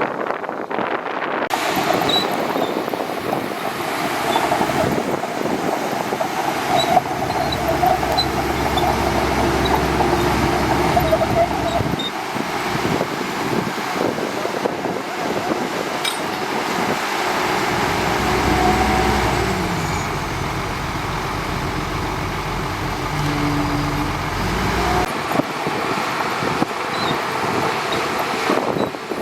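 Shantui DH17C2 bulldozer's diesel engine running steadily, with a deeper rumble that swells in twice, about a quarter of the way in and again past halfway.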